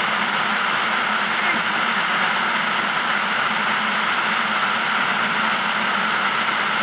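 Flash-flood water pouring over a sandstone canyon drop and churning through the canyon below: a steady, unbroken rush of water.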